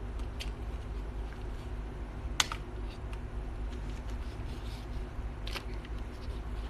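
Three short, sharp clicks over a steady low hum, the loudest about two and a half seconds in.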